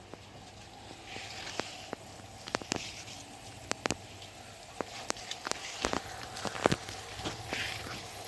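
Pump-fed micro sprinklers watering a terrace garden: a steady low hum under a soft spray hiss, with many irregular sharp ticks of water drops striking.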